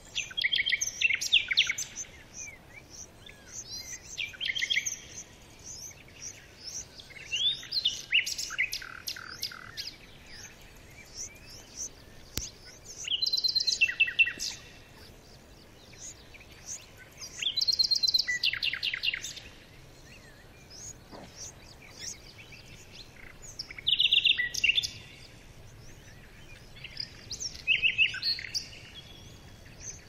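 Red-vented bulbul nestlings begging: bursts of rapid, high-pitched chirping that come every few seconds.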